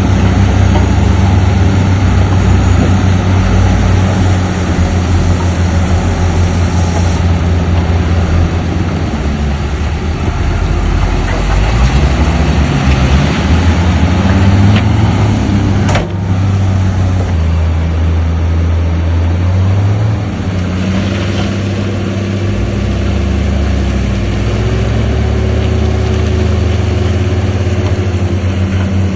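Heavy earthmoving machinery's diesel engine running loudly under varying load, its pitch rising and falling in the middle. There is a sharp click about halfway, after which the engine note changes.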